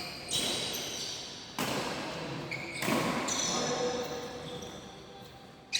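Badminton rally: about four sharp racket strikes on the shuttlecock, roughly a second and a half apart, with shoes squeaking on the court floor in between.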